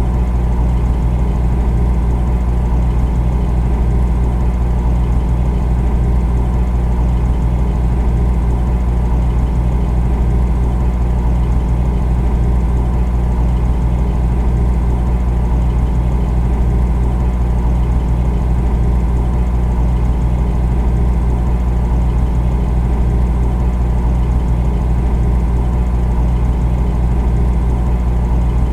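Refrigerator running with a steady, unchanging low hum.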